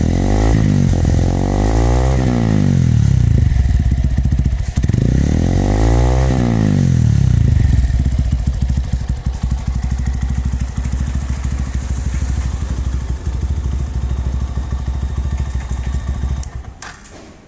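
Brixton Classic motorcycle engine running through its original exhaust with the inner silencer baffle cut out and the air filter removed: revved twice, rising and falling back, then idling steadily. It cuts out near the end.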